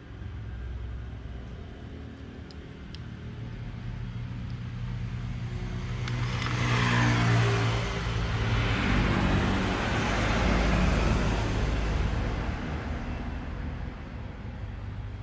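A motor vehicle passing by. Its engine and road noise swell to a peak and fade away over several seconds, over a steady low hum.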